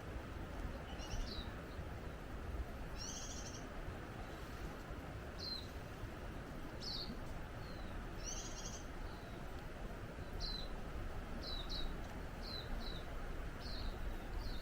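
Small birds calling in a forest: a string of short, high chirps that slide downward, roughly one every second, with two harsher, layered calls about three and eight seconds in. A steady background rush lies under them throughout.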